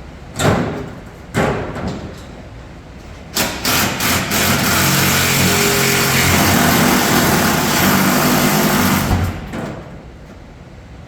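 Two sharp knocks, then a power tool running hard for about six seconds on a stuck bolt before stopping suddenly; the bolt ends up cross-threaded.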